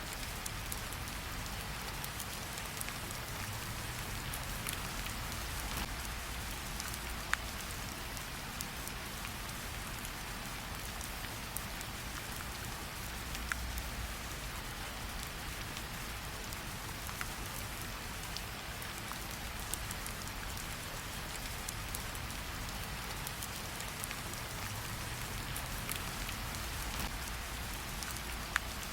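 Steady rain falling, an even hiss with a low rumble beneath it, with a few sharp clicks scattered through it.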